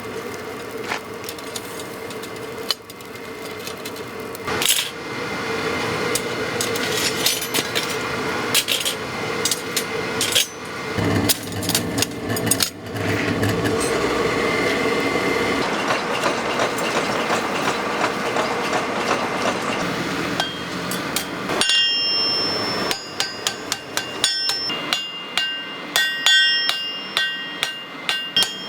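Hammer striking steel on an anvil, about two to three blows a second with a bright metallic ring, starting about 22 seconds in. Before that, a steady rushing machine noise with scattered knocks.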